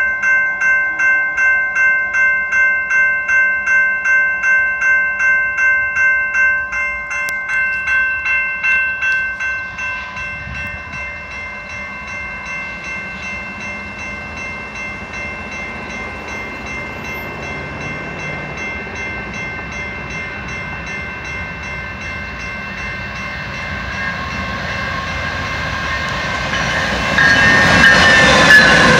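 Railroad crossing warning bell ringing rapidly, about two and a half strikes a second, fading out after about ten seconds. The rumble of an approaching freight train then builds, and near the end a BNSF diesel locomotive's air horn sounds loud as the engine passes, its pitch dropping slightly.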